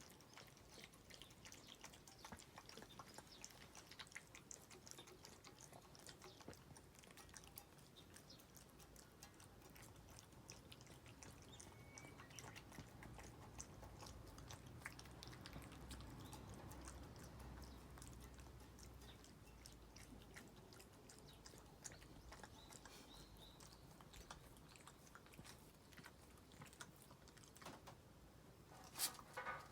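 Shiba Inu lapping and licking up corn soup, a faint run of small wet clicks, with a couple of louder clicks near the end.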